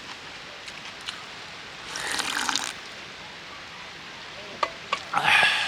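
Water running in two short bursts, one about two seconds in and a louder one near the end, with a few light clicks between.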